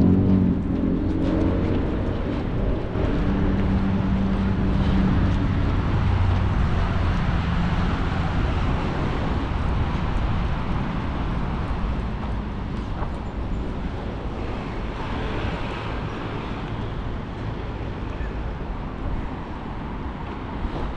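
A motor vehicle's engine humming close by for the first several seconds, then fading into the steady hiss of passing road traffic.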